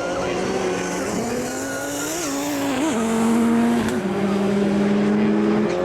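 Rallycross Supercar engines at racing speed, their pitch holding high and then jumping and gliding several times as the drivers rev and shift.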